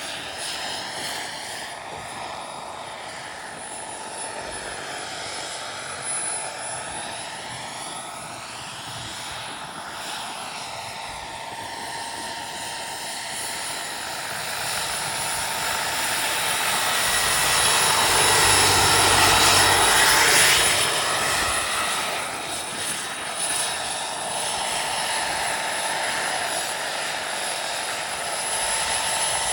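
Turbine-powered scale RC helicopter in flight: a steady high turbine whine over rushing rotor noise. It grows louder about two-thirds of the way through as it comes close, then eases off.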